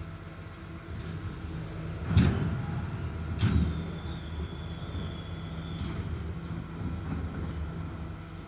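Garbage truck's diesel engine running steadily, with two loud bangs about two and three and a half seconds in, the second followed by a thin high whine lasting a couple of seconds.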